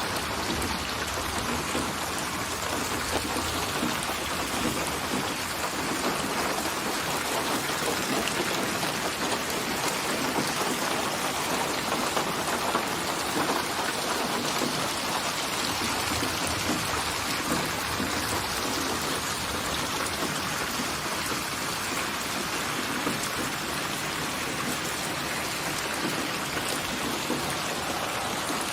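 Steady rain falling, an even, unbroken hiss of many drops that neither builds nor fades.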